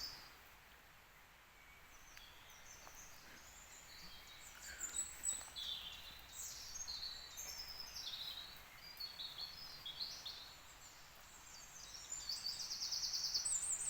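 Woodland songbirds singing: several short, varied phrases begin about four seconds in, with a rapid trill near the end.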